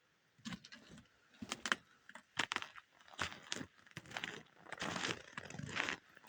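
Footsteps crunching through snow at a walking pace, irregular at first and closer together in the second half.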